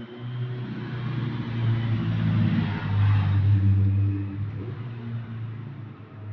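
A low, steady mechanical rumble with a droning hum, swelling from about two to four seconds in and then easing off.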